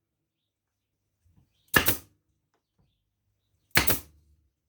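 Hammer driving upholstery tacks through linen into a wooden seat frame: two sharp single blows about two seconds apart.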